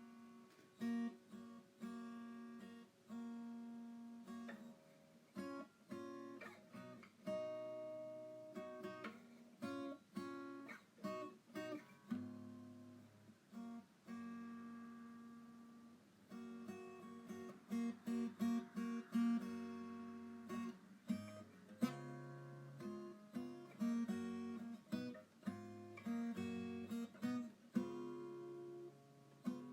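Background music: a solo acoustic guitar picking melody notes and chords, each note struck sharply and fading.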